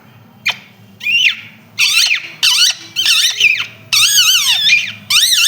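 Pet parrot giving a series of about seven loud, high, squeaky calls that waver rapidly in pitch. The calls get longer towards the end. The owner praises the bird as an expert mimic.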